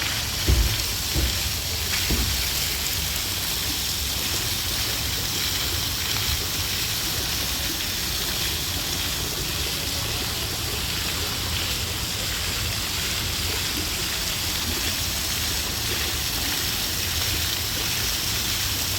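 Fountain water splashing steadily, with a few low thumps in the first couple of seconds.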